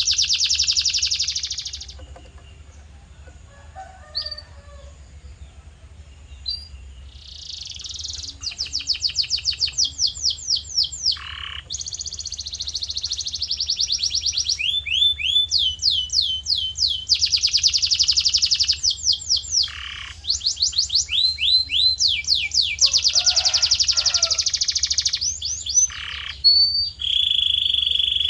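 Male canary singing: a song of fast repeated trills and rapidly repeated downward-sweeping notes, with a quieter stretch a few seconds in and a short held note near the end.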